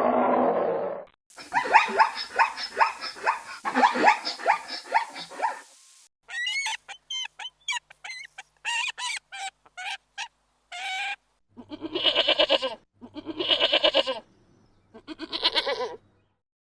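A run of different farm animal calls in turn: first a fast string of pitched calls, then a series of short high chirps, then three long wavering calls about a second each.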